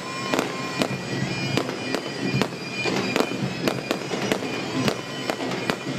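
Fireworks going off in quick succession, a rapid run of sharp bangs and crackles with a short whistle near the start, over bagpipes playing steadily.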